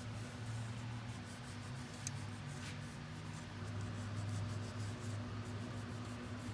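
Repeated light scraping and rubbing strokes of a hand tool working caked deposits off engine parts, over a steady low hum.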